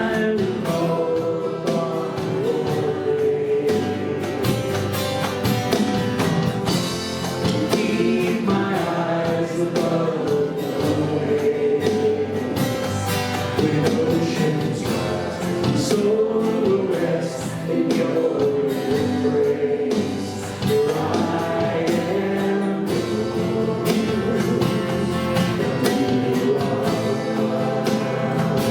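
Live church worship music: a group of voices singing a worship song together over instrumental accompaniment, at a steady level throughout.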